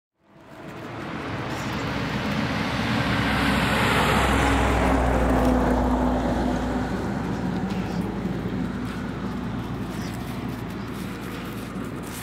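A motor vehicle passing, its engine hum and road noise swelling to a peak in the middle and then slowly fading.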